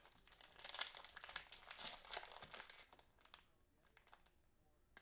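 Plastic trading-card packaging crinkling as it is handled, dense for about the first three seconds, then a few light ticks and rustles.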